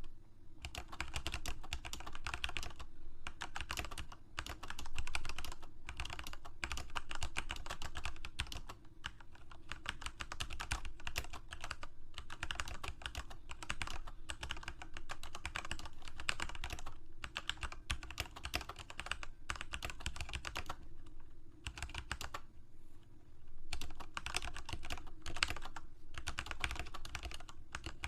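Typing on a computer keyboard: a fast, steady stream of key clicks broken by a few short pauses, the longest about three quarters of the way through.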